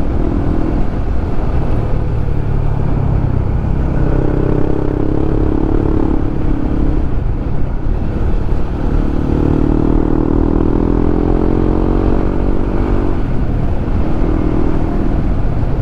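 Honda CB150X single-cylinder motorcycle engine running on a ride, its note swelling and easing several times as the throttle opens and closes, over a steady low rumble of wind and road.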